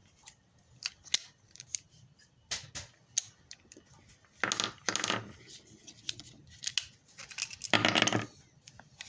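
Scattered sharp metallic clicks and handling noise from an M206 snub-nose revolver being handled, with two longer scraping, rustling spells about four and a half and eight seconds in.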